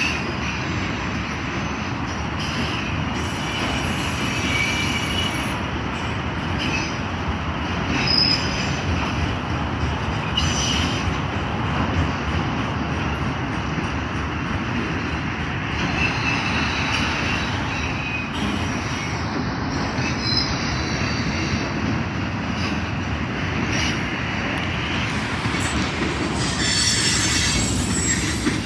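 Freight train cars rolling past, a steady rumble of wheels on the rails with several short, high-pitched wheel squeals along the way.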